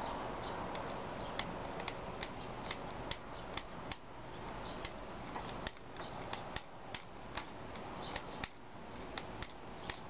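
Small Allen key working a screw out of a Tippmann A-5 paintball marker's receiver: an irregular run of light metal clicks, two or three a second, as the key is turned and re-seated in the screw head.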